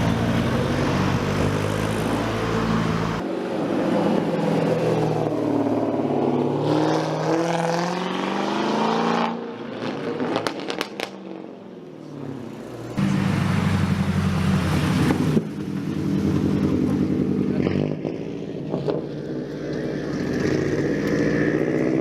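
Tuned car engines revving up and down, the pitch rising and falling, with abrupt changes between stretches. A few sharp exhaust pops come in a quieter patch near the middle.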